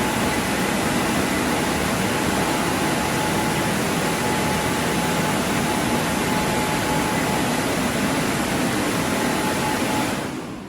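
Drying blowers of a WashTec SoftCare Pro Classic rollover car wash running: a steady rush of air with a faint whine, cutting out near the end.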